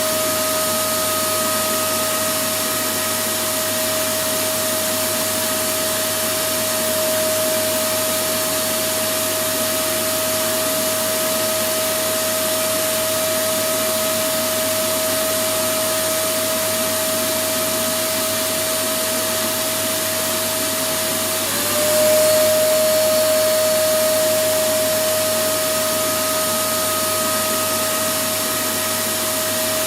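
Electric vacuum cleaner running steadily: an even rushing hiss with a constant high motor whine. About two-thirds of the way through, the whine dips slightly in pitch and the sound swells briefly before settling back.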